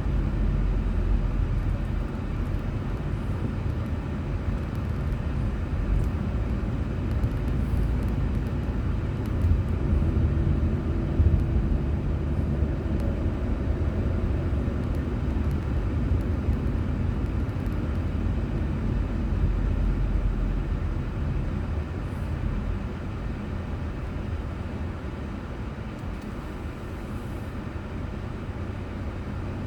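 Car driving on a road, recorded by a dashcam: a steady low rumble of engine and tyre noise, getting a little quieter over the last several seconds.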